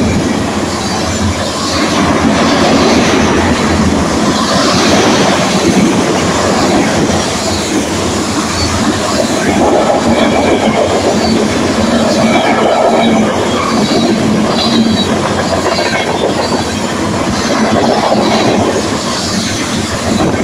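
Oil tank cars of a long freight train rolling past: a steady, loud rumble and clatter of steel wheels on the rails, with faint high wheel squeals now and then.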